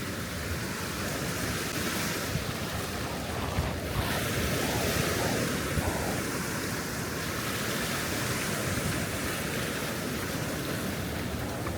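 Sea waves breaking and washing up a sandy beach, with wind buffeting the microphone. The surf swells louder a couple of seconds in and eases after the middle.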